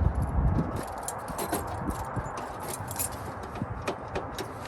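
Scattered light metallic clicks and clinks, like keys and small lock parts being handled, after a dull thump at the start.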